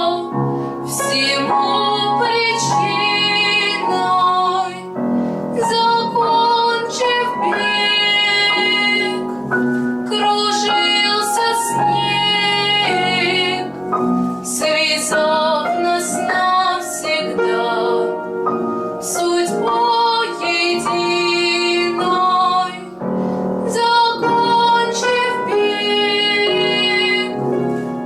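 A female voice singing a Russian song in long, held phrases with vibrato, over piano accompaniment, with brief breaths between phrases.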